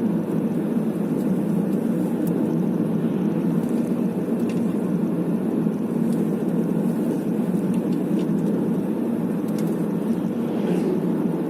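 Steady road and engine noise of a moving car heard from inside the cabin: an even low rumble that doesn't change.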